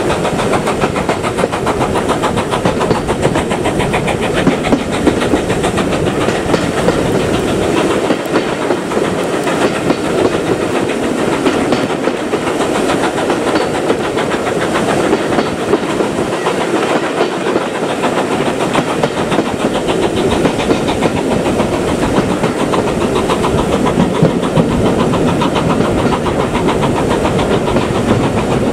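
Steam train running on the rails, with a steady, dense clatter of wheels and running gear that keeps up throughout.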